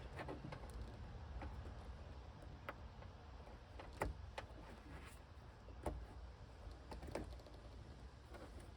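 Scattered light clicks and taps from hands handling plastic interior trim, over a low steady hum; the sharpest clicks come about 4, 6 and 7 seconds in.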